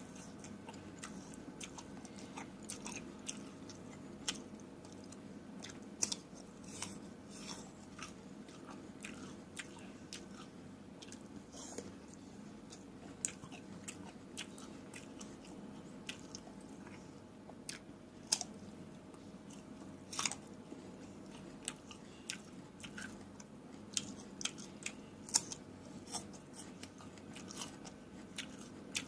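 A person chewing and biting fresh fruit, close to the microphone: irregular crisp crunches and wet clicks, over a steady low hum.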